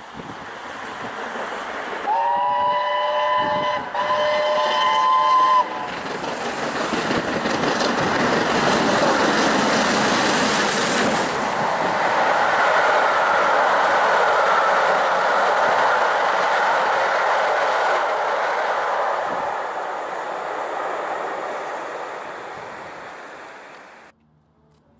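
BR Standard Class 7 Britannia steam locomotive 70013 sounding its whistle in two quick blasts, then the train passing: its noise swells, then fades, and cuts off abruptly near the end.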